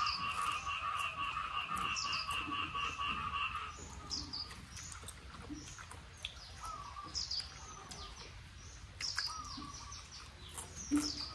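Birds calling: short high chirps scattered throughout, and for the first three and a half seconds a continuous, evenly pulsing trill.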